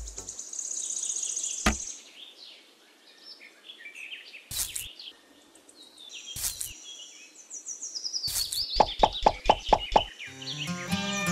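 Birds chirping in short high trills and falling chirps, with a few brief rustles, then a quick run of about six sharp knocks near the end.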